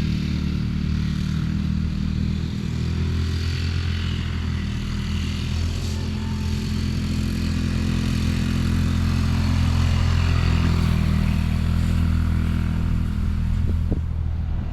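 Off-road vehicle engine running at a steady speed, without big revs.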